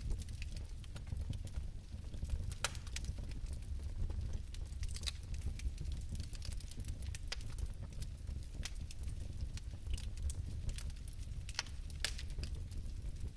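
Fireplace fire crackling: irregular sharp pops and snaps, several a second, over a steady low rumble of flame.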